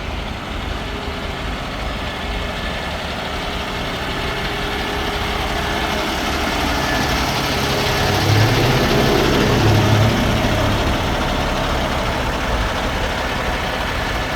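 Heavy truck's diesel engine idling with a steady rumble, growing louder for a couple of seconds past the middle before settling back.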